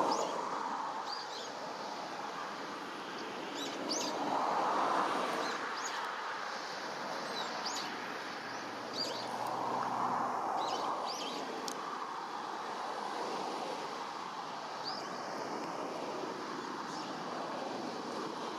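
Little ringed plover calling: short, high chirps repeated at irregular intervals, over a steady rushing background that swells twice.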